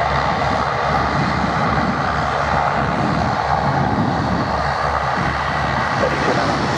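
Airbus A320-232 airliner's twin IAE V2500 jet engines, a loud steady rush as the aircraft comes in to land.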